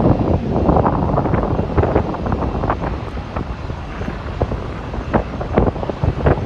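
Wind buffeting the phone's microphone: a gusty rumble broken by irregular pops and crackles.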